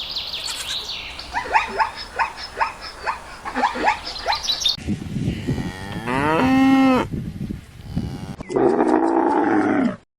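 A bird chirping in a quick series of short, falling notes, then, after a cut, a long mooing call of cattle, followed near the end by another low, drawn-out animal call.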